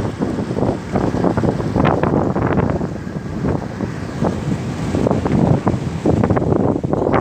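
Wind buffeting the microphone in uneven gusts, with water rushing and splashing, aboard a Kostromich motorboat on the move.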